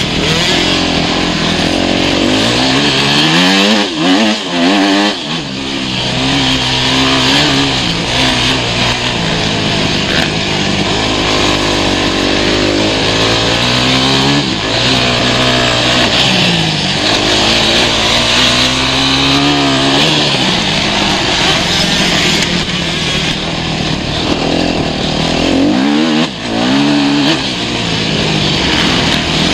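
Motocross motorcycle engine running hard, its pitch rising and falling over and over as the throttle opens and closes. It eases off briefly about four seconds in and again near the end.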